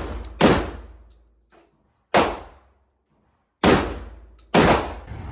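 A semi-automatic shotgun fired four times in uneven succession, the shots coming closer together toward the end, each report ringing out with a short echo.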